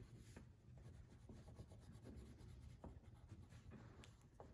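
Faint scratching of crayons rubbed back and forth on paper as a drawing is coloured in, with a few light ticks.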